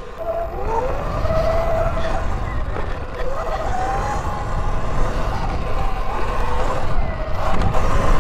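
Electric dirt bike motor whining under throttle. Its pitch rises and falls as the rider accelerates and backs off, over a low wind rumble on the microphone.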